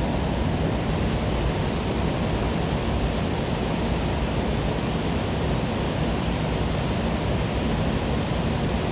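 2010 Audi A4 B8 engine idling roughly, heard as a steady rushing noise with a low rumble under it and a small click about four seconds in. The rough idle comes with the EPC and check-engine lights on and a camshaft position sensor fault code (P0341).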